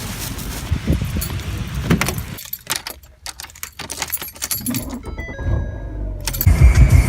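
Scattered clicks and light metallic jangling, then background music with a heavy pulsing beat comes in near the end.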